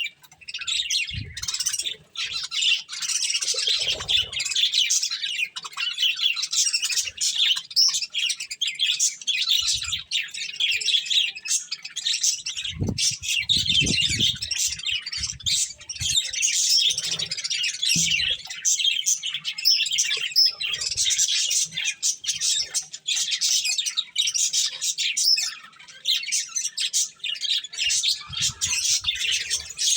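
Several budgerigars chattering and chirping without a break, a dense tangle of short high calls. A few soft low knocks come in among them, the clearest a cluster about halfway through.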